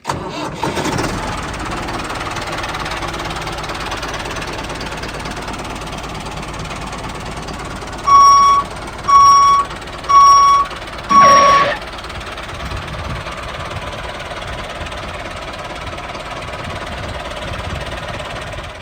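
A small motor running steadily with a low rumble. About eight seconds in, four loud electronic beeps of one tone sound about a second apart.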